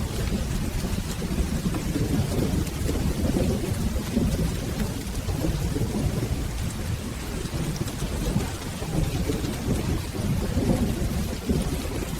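Steady rain with a continuous low, rolling rumble of distant thunder underneath it.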